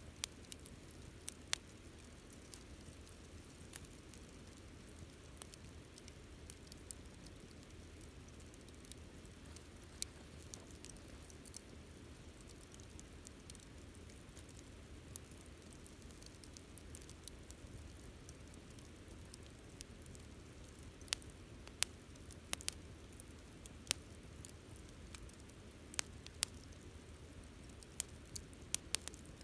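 Wood campfire burning: scattered sharp crackles and pops over a faint, steady low rumble, the crackles coming much more often in the last third.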